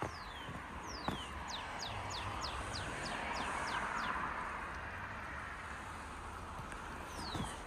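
A songbird singing a run of about a dozen quick, falling whistled notes, about four a second, with one more falling note near the end. A steady rushing background noise runs under it.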